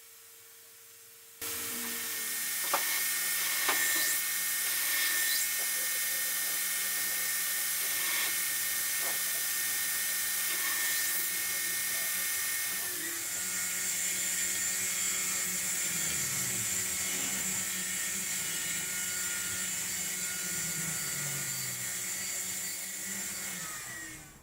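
Belt grinder running with a coarse 36-grit ceramic belt, grinding the bevel of a steel knife blade. It starts suddenly a little over a second in as a steady, hissing whine with brief scrapes, shifts about halfway through when a higher steady whine joins, and stops near the end.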